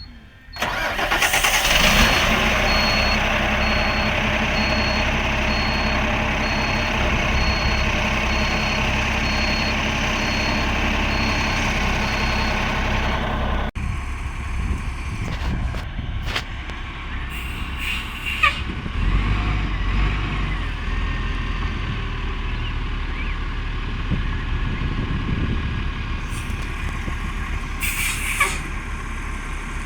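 Garbage truck working: loud steady machine noise with a fast, faint high beeping through the first half, then, after an abrupt change, the diesel engine running with a deeper rumble and a few sharp clicks.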